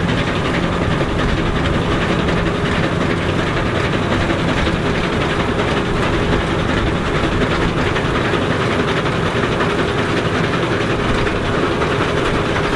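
Heavy vintage farm machinery running steadily: an engine's steady hum under a continuous mechanical rattle.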